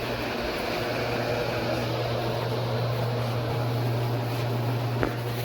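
A motor running with a steady low hum and a faint hiss, with a single sharp click about five seconds in.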